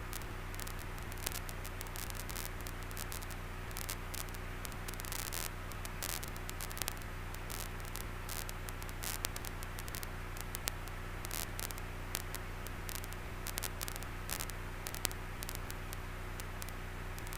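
Steady static hiss over a low hum, with scattered faint crackles, in the cockpit audio of a 1947 Luscombe 8E gliding with its engine at idle during a simulated engine failure.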